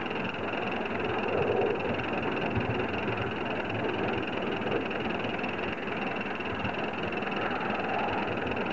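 A 3½-inch gauge live-steam Prairie tank model locomotive running, with a steady hiss of steam.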